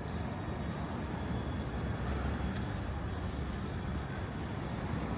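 Steady low rumble of a city street at night, like distant traffic, with a few faint soft ticks.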